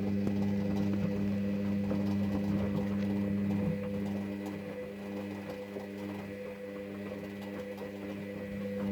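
Hoover VHD Sensor Dry washer-dryer running its wash cycle: a steady motor hum as the drum turns, with faint ticks.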